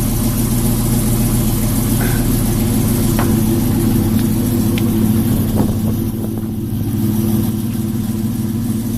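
Pickup truck engine idling steadily, with a few light clicks over it.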